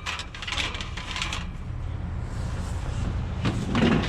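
Clattering and scraping of scrap being shoved and wrestled into a packed van, in two bouts, at the start and near the end, over a steady low rumble.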